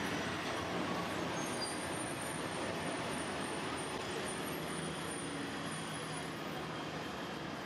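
Steady low rumble of an empty LHB coach rake being shunted away by a WDG3A diesel locomotive, slowly fading as the train recedes.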